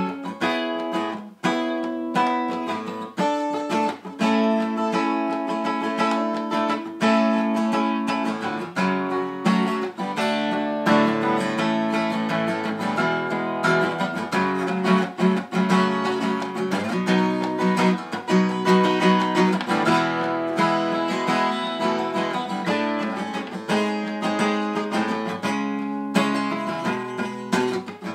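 Solo acoustic guitar playing an instrumental passage, a steady flow of strummed and picked chords.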